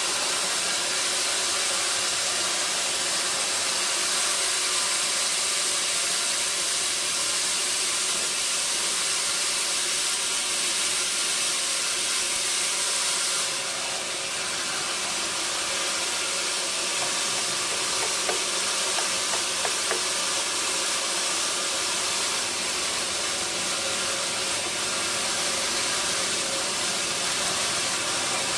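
Sawmill machinery running with a steady hissing whir. The sound changes slightly about halfway through, and a few faint clicks come later.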